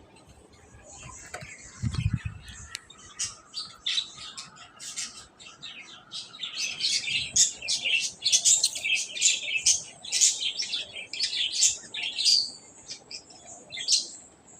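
Birds chirping: many short, high calls overlapping, thickest from about six seconds in until about twelve. There is a brief low thump about two seconds in.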